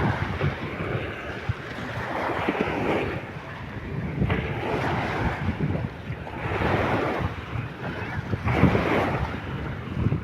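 Surf washing on a beach with wind buffeting the microphone. The hiss of the water swells and fades about every two seconds over a low rumble.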